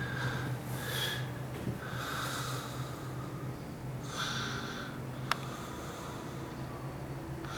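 A person breathing and sniffing close to the microphone, in several short breathy bursts, over a steady low hum, with one sharp click about five seconds in.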